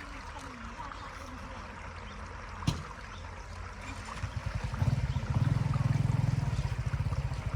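Water flowing and trickling steadily, with a single sharp knock a little under three seconds in. From about four and a half seconds a louder, fluttering low rumble joins the water.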